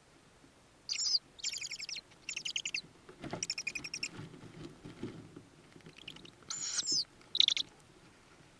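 Tawny owl chicks in the nest box giving high, squeaky, chittering calls in about six short bursts, with some low rustling of movement in the box midway through.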